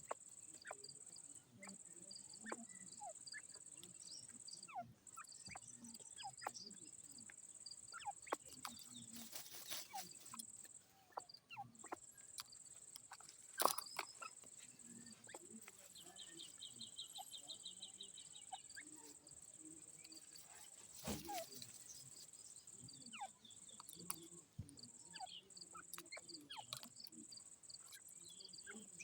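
Faint outdoor ambience: a steady, high-pitched insect drone with scattered short chirps. A rapid run of ticks comes a little past the middle, and there is one sharp click.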